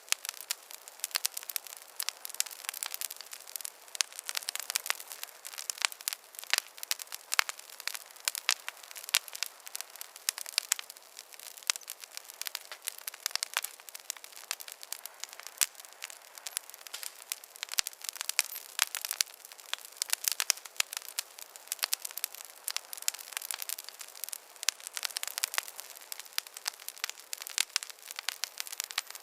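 Wood fire crackling in a fireplace: a dense, irregular run of sharp pops and snaps over a faint hiss, with no low rumble.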